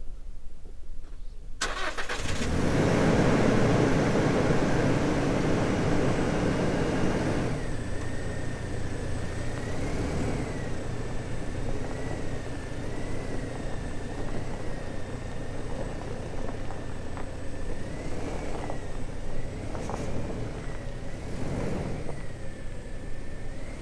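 Toyota Fortuner engine starting about a second and a half in, running loudest for the first few seconds, then settling to a steadier run. A faint wavering whistle sounds through the second half.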